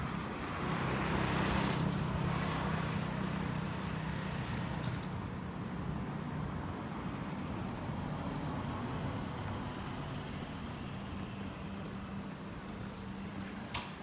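A motor vehicle running with a steady low hum, with a louder rush of passing noise about a second in that eases off over the next few seconds.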